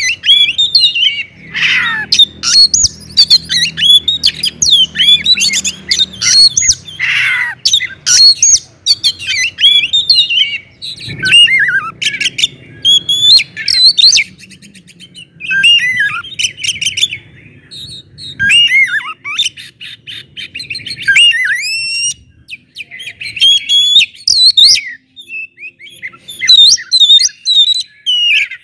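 Oriental magpie-robin (kacer) singing loudly: a rapid, varied stream of clear whistles, slurred notes, harsh squawks and fast trills, broken by brief pauses.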